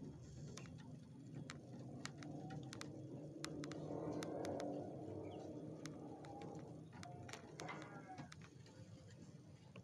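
Sooty-headed bulbul giving a soft, brief call about seven and a half seconds in, amid faint scattered clicks and taps.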